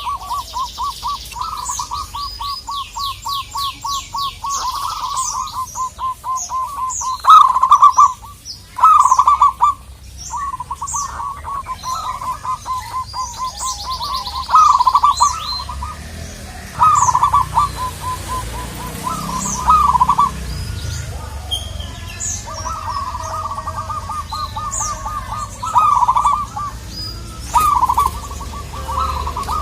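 Zebra doves cooing: rapid, stuttering trills at a steady mid pitch, broken every few seconds by louder rolling phrases, with thin high chirps from other small birds above them.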